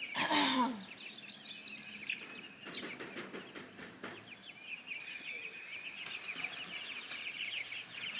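A flock of young meat chickens cheeping and peeping continuously in rapid, overlapping high calls. A brief louder sound with a falling pitch comes about half a second in.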